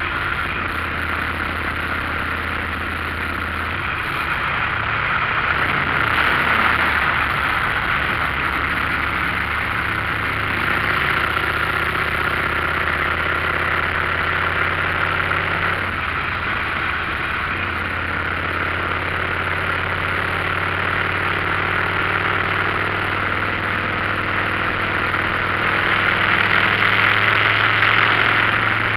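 Motorcycle on the move: a steady engine note that steps in pitch a few times, under heavy wind and road noise.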